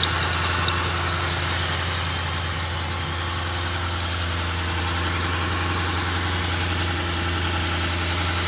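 Ford 4.6L V8 idling steadily with a low, even hum. A steady high-pitched squeal-like tone sits over it throughout.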